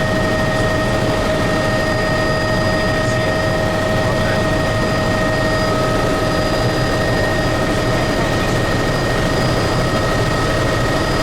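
Helicopter in flight: a steady, unbroken engine and rotor noise with a constant high whine running through it.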